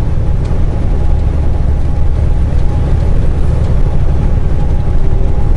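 Semi truck cab interior while driving: diesel engine and road noise, a steady loud low rumble.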